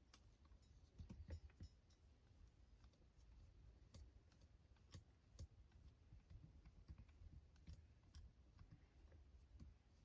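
Near silence with faint, scattered clicks and light taps of small RC truck parts and tools being handled, a few louder together about a second in.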